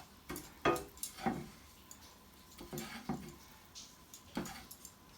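A cooking utensil working in a pot of water that is being thickened: a handful of scattered light knocks and clinks against the pot.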